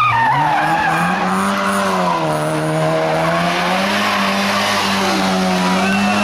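Small hatchback's engine revving up and down as it is driven hard through a cone slalom, with a brief high tyre squeal near the end.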